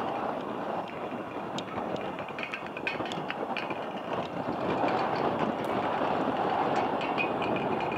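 Train running along the tracks: a steady rumble that grows louder about five seconds in, with scattered sharp clicks.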